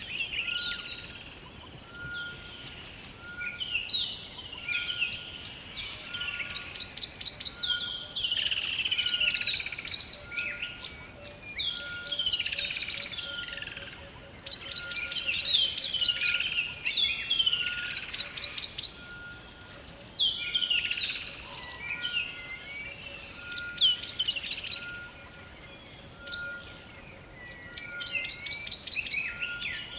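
Several birds singing at once in a forest chorus: fast high trills recurring every few seconds over warbling songs, with one short note repeated steadily about once a second throughout.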